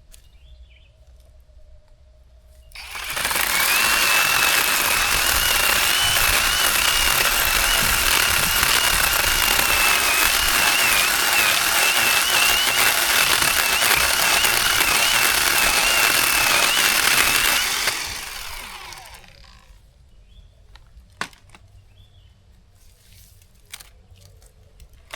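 Zhipu 48V cordless electric chainsaw running for about fifteen seconds, with a high motor whine that wavers under load. It starts about three seconds in and winds down near the end.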